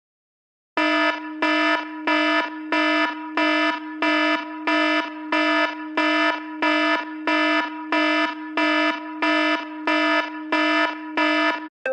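An old Apple iPhone alarm-style ringtone: a buzzy electronic beep at one steady pitch, repeating about twice a second. It starts about a second in and stops just before the end.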